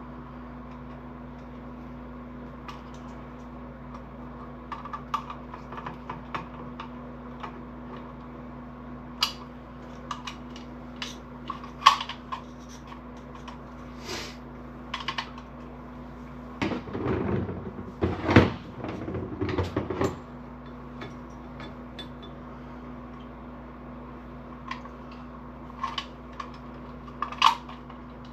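Small clicks, taps and handling noises from hands working on wires and a small relay module, with a few seconds of louder rubbing and handling about two-thirds of the way through. A steady low hum runs underneath.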